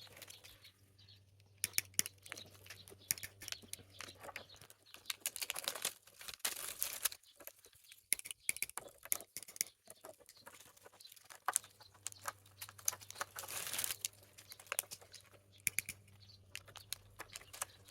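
A strip of plastic cut from a bottle being wound tightly around a metal swing hinge: irregular crinkling and clicks, with a couple of longer rustling stretches about five and thirteen seconds in.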